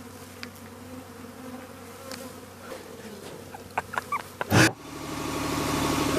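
Honeybees buzzing steadily around the opened hive. About four and a half seconds in there is a loud brief burst, and then the boom lift's engine comes up and runs, growing louder.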